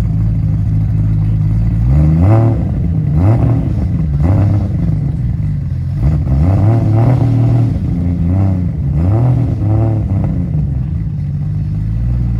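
Toyota JZ straight-six in a swapped Nissan S13 drift car, idling and then blipped up and down repeatedly, about six quick revs over several seconds, before settling back to idle near the end.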